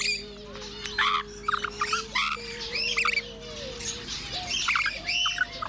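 Several aviary birds chirping and squawking: many short, overlapping calls.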